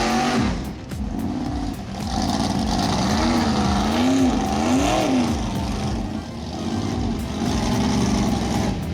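Off-road vehicle's engine revving under load, its pitch rising and falling several times in quick swells about halfway through.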